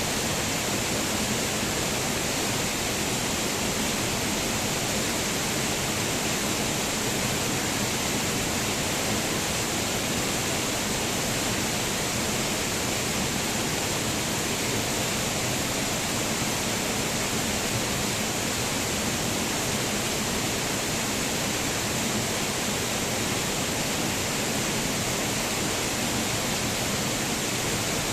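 A waterfall: water falling and splashing in a steady, unbroken rush.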